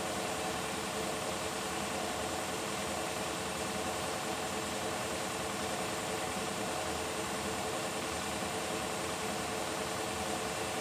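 Beko WTK104121W washing machine running steadily through its final 600 rpm spin on the delicates cycle: an even motor hum with a steady whine that does not rise or fall.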